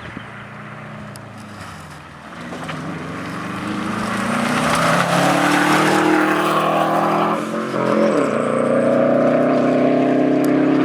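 Rally car engine coming closer and getting louder under hard acceleration, its pitch climbing, with a gear change about three quarters of the way through before it revs high again.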